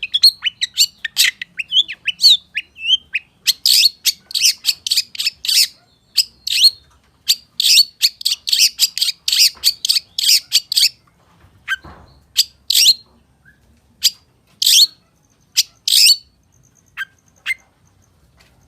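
Long-tailed shrike singing: a rapid, dense run of sharp, high chirps. After about eleven seconds it thins to scattered single notes.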